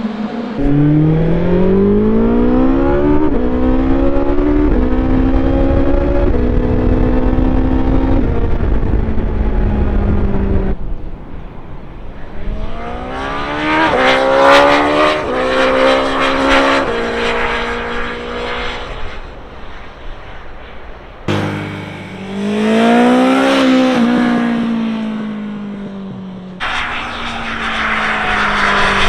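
BMW S1000XR's inline-four engine through an Akrapovic exhaust, accelerating hard up through the gears, its pitch climbing and dropping back at each upshift. Then two hard-accelerating pass-bys, each note rising as the bike nears and falling away as it passes, and a third run starting near the end.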